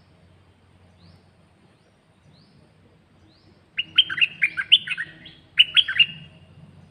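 A caged songbird singing: two loud bursts of quick warbled notes starting about four seconds in, the second one shorter. Faint short chirps repeat about once a second before them.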